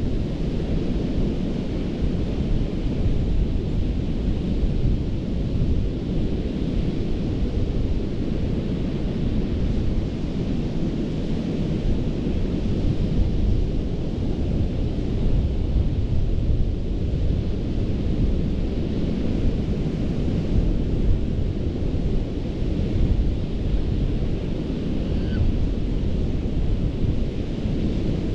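Gulf of Mexico surf washing onto a sandy beach: a steady, continuous rush of waves, deep and rumbling, with a fainter hiss above it.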